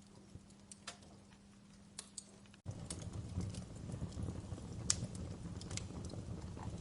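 Wood fire crackling with scattered sharp pops. About two and a half seconds in the sound cuts out for an instant and comes back louder, with a low rumble of burning under the crackles.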